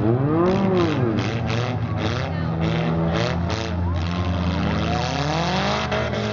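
Four-cylinder demolition derby car engines running and revving, the pitch swinging up and down. A run of short, rapid noisy bursts comes through the first half.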